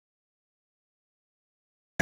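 Silence with no sound at all, until the audio cuts in abruptly right at the very end.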